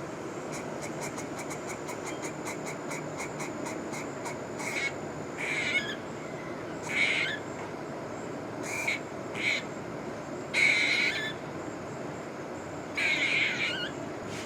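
A bird calling: first a fast run of short clicking notes, about five a second, then a series of harsh, raspy calls a second or two apart. The listener takes it for an injured bird or a newborn bird crying for food.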